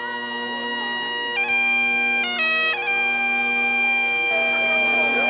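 Bagpipes playing slow held notes over a steady drone, the melody stepping to a new note every second or so.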